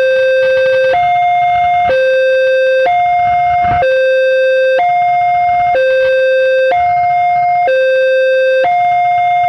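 Railway level crossing warning alarm sounding two alternating tones, each held for about a second, in a steady repeating pattern: the signal that a train is approaching and the crossing is closing.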